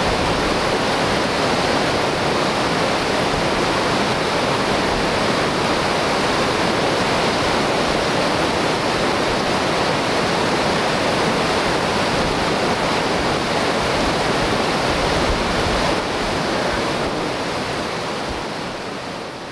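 Whitewater rapids rushing, a steady, even wash of water noise that fades out near the end.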